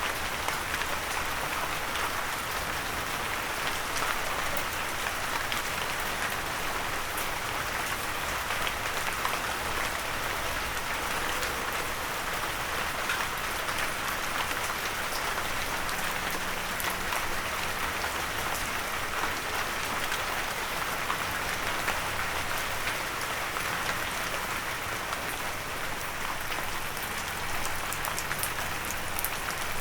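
Steady rain falling, with a dense patter of drops hitting a windowsill.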